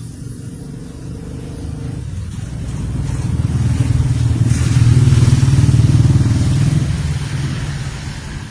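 A motor vehicle's engine passing by, rising to its loudest about five seconds in and then fading.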